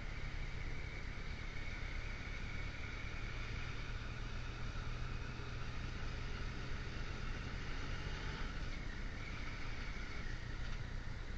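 Motorcycle engine running steadily while riding, with wind and road noise; the engine note shifts slightly about eight seconds in.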